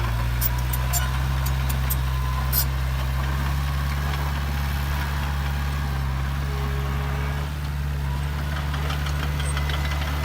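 Heavy diesel engine of an earthmoving machine running steadily, with a few sharp clicks or ticks in the first few seconds.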